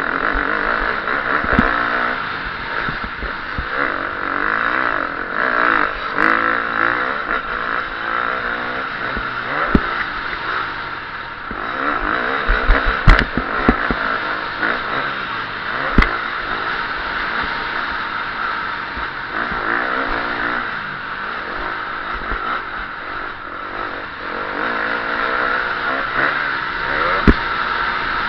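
KTM 350 SX-F four-stroke single-cylinder motocross engine revving up and down hard as the bike races around the track, with sharp knocks now and then, the loudest a cluster a little after halfway.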